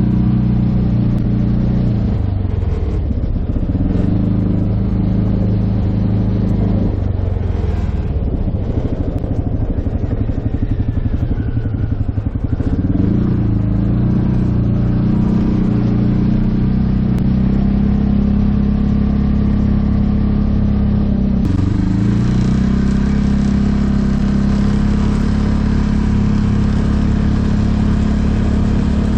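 Freshly rebuilt single-cylinder engine of a 2015 Polaris Ranger 570 UTV running under way, its engine speed shifting up and down several times, with an abrupt change about 21 seconds in.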